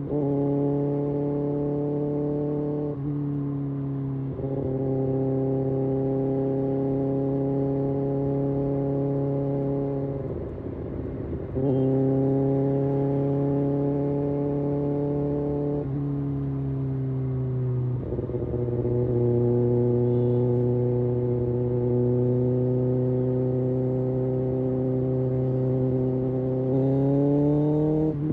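Kawasaki Ninja ZX-6R inline-four sportbike engine and exhaust under way, holding a steady note for long stretches. The note drops and climbs again a few times as the revs change, with a short rougher, quieter stretch about ten seconds in and a slight rise near the end.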